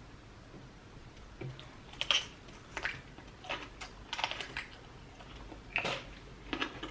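Close-miked eating sounds: a handful of short, irregular clicks and smacks of chewing and mouth noise while eating seafood.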